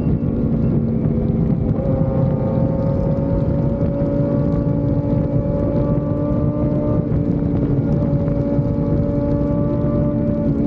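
Sport motorcycle engine running at a steady cruising speed, its pitch nearly even, with wind rushing over the microphone.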